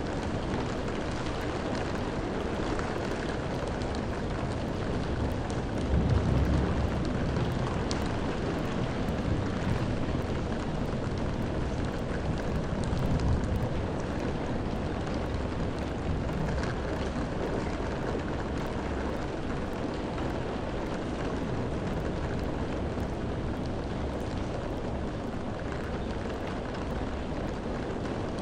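Steady rain falling, an even hiss of drops. A deeper rumbling swell rises about six seconds in, and again more softly around thirteen seconds.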